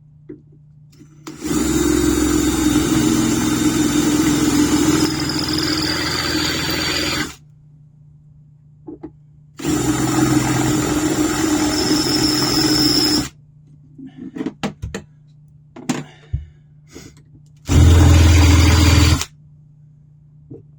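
Electric drill running in three runs of about six, four and one and a half seconds, boring out a hole with a slightly larger bit so a screw will fit. A few small clicks and knocks fall between the second and third runs.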